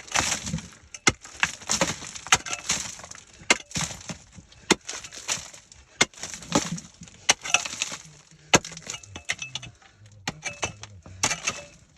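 An irregular run of sharp cracks and crunches as something hard and brittle is struck and broken, several impacts a second. A faint low hum comes in during the last few seconds.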